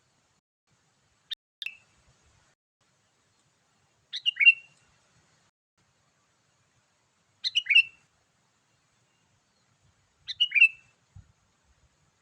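Sooty-headed bulbul calls used as a lure: four short, bubbly phrases about every three seconds, the first one shorter and sharper.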